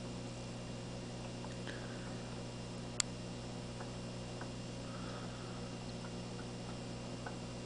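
Ultrasonic humidifier running: a steady low hum with faint scattered ticks and one sharp click about three seconds in.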